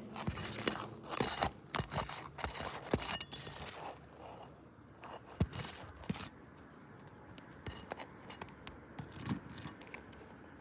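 Roof shingles being pried up and unsealed in a repairability test: a run of scraping and crackling, then scattered sharp clicks after about four seconds.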